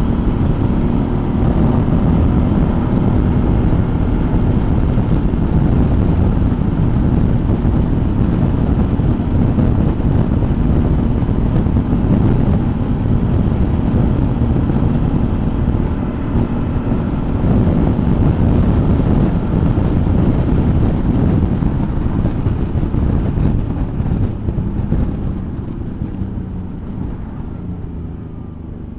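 Suzuki V-Strom motorcycle riding along: steady engine and road noise with wind on the helmet-mounted or bike-mounted camera, dying down over the last few seconds.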